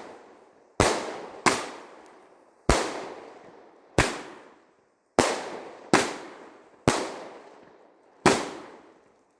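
18 mm consumer firework battery (cake) firing shot after shot: eight sharp bangs at uneven spacing, roughly one a second, each trailing away over about a second.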